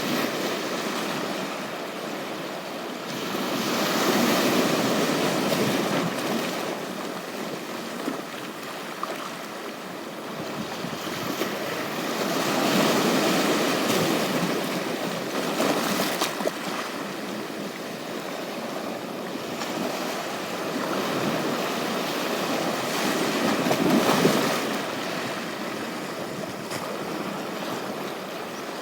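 Ocean surf washing onto a beach, the waves swelling and falling back every several seconds.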